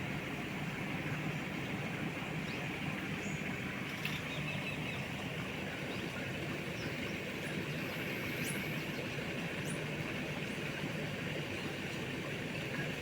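A steady low hum from a motor, with a high, even buzz above it and a few faint, short high chirps.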